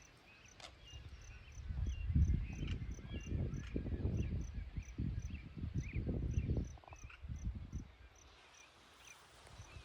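Cricket chirping steadily, about four chirps a second. For several seconds in the middle, low rumbling buffets the microphone, then dies down near the end.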